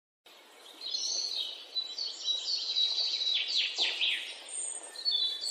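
Birds chirping and singing: many quick high calls, some sweeping quickly down in pitch, over a faint background hiss. The sound cuts in suddenly just after the start.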